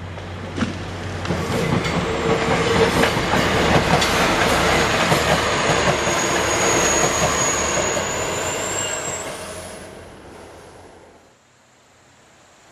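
A two-car KTR700-series diesel railcar set passing close by, wheels clacking over rail joints, with a thin high wheel squeal through the middle that steps up in pitch before it stops. The sound swells over the first couple of seconds, holds, then fades away as the train recedes, leaving only faint background after about eleven seconds.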